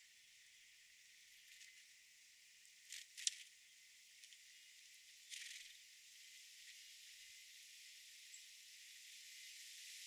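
Faint, steady hiss of outdoor garden ambience, with a couple of short sharp clicks about three seconds in and a brief rustle about five and a half seconds in.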